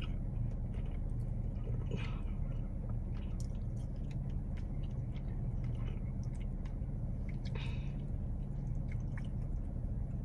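A person chewing a chicken wing dipped in ranch, with wet, squishy mouth sounds and small clicks. A steady low car-cabin hum runs underneath.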